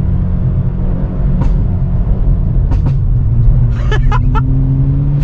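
Hyundai Veloster N's turbocharged four-cylinder engine and stock exhaust running under way, a steady drone that from about halfway slowly climbs in pitch as the revs build. A few short sharp clicks come through over it.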